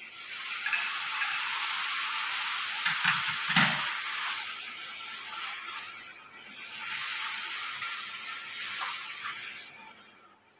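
Chilli chicken pieces sizzling and frying in hot oil in a wok as they are tipped in and stirred with a metal spatula, with a few sharp clacks of the spatula against the pan about three to four seconds in.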